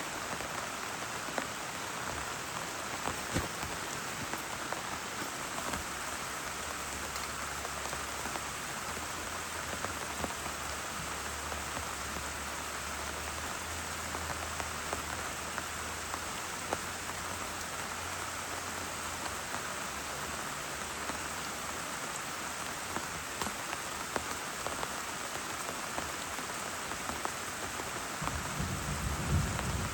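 Steady heavy rain, with scattered drops tapping on a surface. A low rumble of thunder starts near the end.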